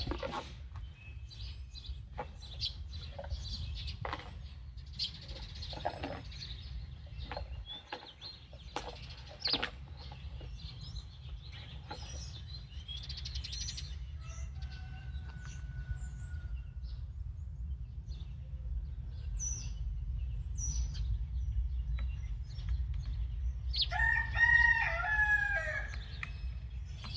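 Scattered light clicks and taps of small metal and plastic parts being handled, over a steady low hum; near the end a bird crows once, a single call of about a second and a half that bends in pitch.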